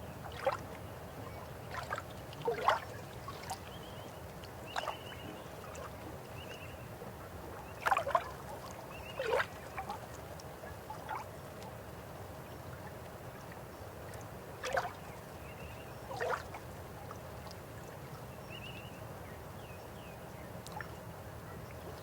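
River water flowing in a low steady rush, with irregular gurgles and plops bubbling up every second or two, the loudest near the middle.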